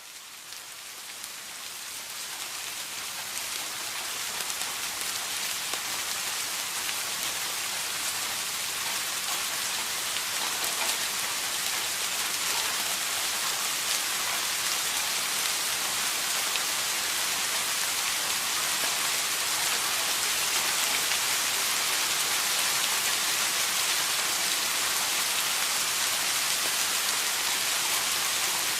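Steady rain falling, a dense even hiss of drops that fades in over the first few seconds and then holds steady.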